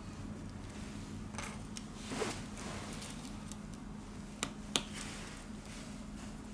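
Small handling sounds of tools and smartphone parts during reassembly: soft scrapes and rustles, then two sharp little clicks about four and a half seconds in. A steady low hum sits underneath.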